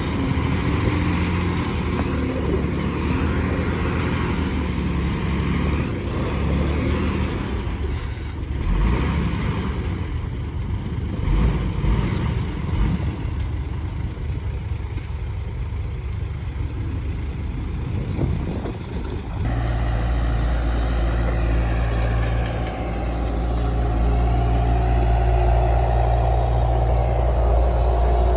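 Diesel engines of earthmoving machines running under varying load, with a few knocks around the middle; about two-thirds through the sound switches abruptly to a steady, deeper engine note.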